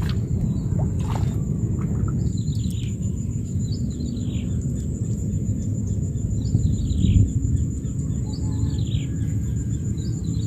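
A bird calling over and over, short falling chirps every second or two, over a steady low rumble and a constant thin high-pitched whine.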